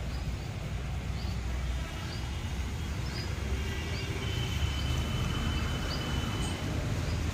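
Outdoor ambience: a steady low rumble with a small bird repeating a short high chirp about once a second.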